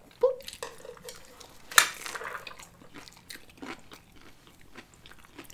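Close-miked eating sounds of sushi rolls being bitten and chewed: soft chewing with scattered mouth clicks, and one sharper crunch about two seconds in.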